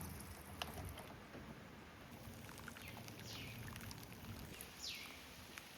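Quiet room tone with a few faint clicks and two short, falling bird chirps about three and five seconds in.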